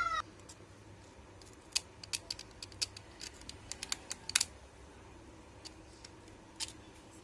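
Irregular sharp clicks and scratches of a blade cutting and scraping away a copper track on a CRT TV's circuit board, bunched over a few seconds and then trailing off to a couple of isolated clicks. The track being removed is the shorted collector line between the video output transistors.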